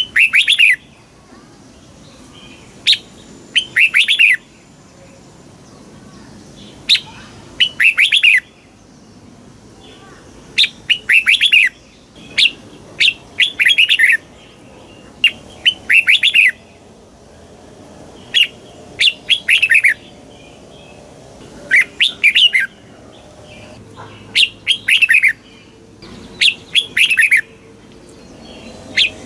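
Red-whiskered bulbul singing: short, clear, bubbly phrases repeated every one to three seconds. Each phrase is a quick sharp note followed by a tumbling run of falling whistled notes.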